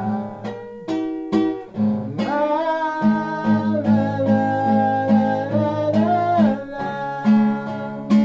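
Instrumental break of a song: guitar-led music with a steady pulsing low accompaniment and held melody notes.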